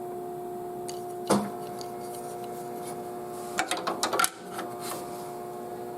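Small plastic and metal parts of a CPU cooler mounting bracket being handled and fitted: a single click about a second in and a short clatter of clicks near the middle, over a steady hum.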